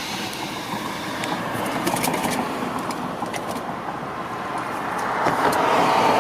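Road noise of a moving car, heard from the cabin: a steady rush of tyres and wind that swells louder near the end.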